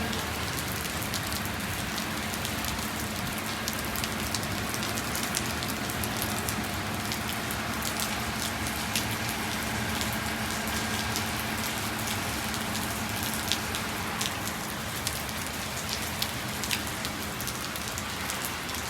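Heavy rain falling steadily, a continuous hiss dotted with sharp ticks of individual drops striking a surface.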